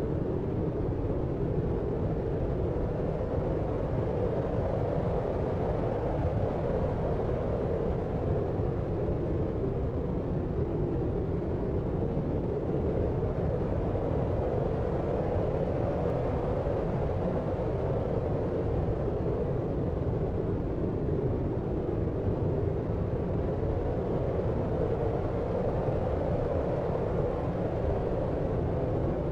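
Steady deep noise of the sleep-aid kind: an unchanging dull hiss, heavy in the low and middle range with little treble.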